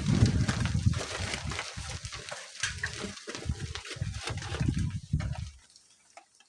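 Strong wind gusting against the microphone: choppy low rumbling buffets with scattered crackles, which drop away to near silence about five and a half seconds in.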